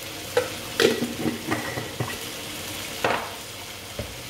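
Ground spice paste and chilli powder frying in oil in a pan, sizzling steadily, while a utensil stirs it and knocks against the pan about seven times.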